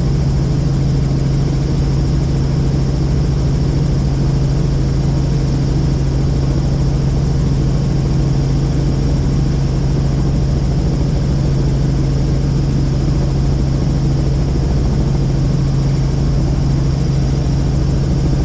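Helicopter in flight heard from inside the cabin: a loud, steady drone of engine and rotors with a constant low hum and no change in pitch.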